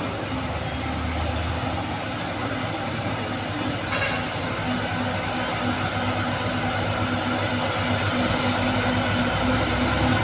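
Heavy diesel truck engine running steadily, with a constant hum over a low rumble and a single sharp click about four seconds in.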